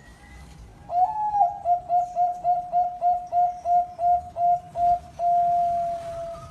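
Zebra dove (perkutut) cooing its song: an opening note about a second in, a quick even run of about a dozen short coos, and one long held closing note.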